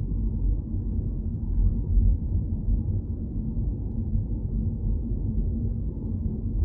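Steady low rumble of a car driving: engine and road noise, with a faint steady hum.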